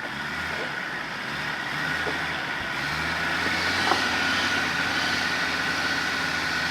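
A 4x4's engine running steadily as it drives slowly along a rough track, the level rising gradually, with a few light knocks, the sharpest about four seconds in.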